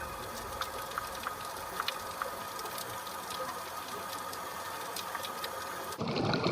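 Underwater ambience on a coral reef: a steady hiss with scattered sharp clicks and crackles, typical of snapping shrimp. About six seconds in it gives way to a louder low rushing of water.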